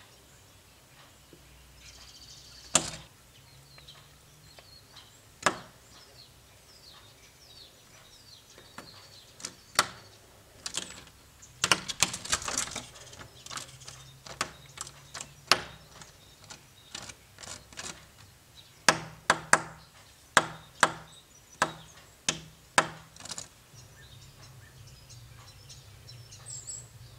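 Syrian woodpecker striking a window pane with its bill, a territorial attack on its own reflection. Sharp, irregular knocks on the glass: single strikes, a rapid flurry about twelve seconds in and another cluster towards the end.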